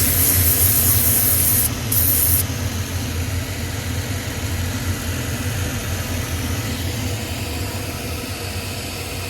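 Two bursts of loud hissing over a steady low machine hum. The first hiss lasts about two seconds, the second about half a second, and they end about two and a half seconds in. The hum carries on alone after that.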